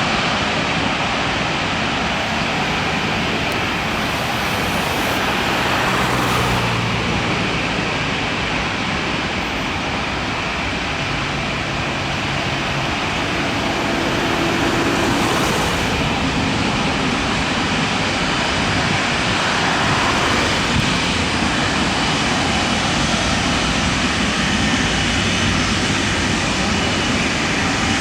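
Airbus A330-343 jet airliner's Rolls-Royce Trent 700 turbofan engines running, a loud, steady jet noise that neither clearly rises nor fades.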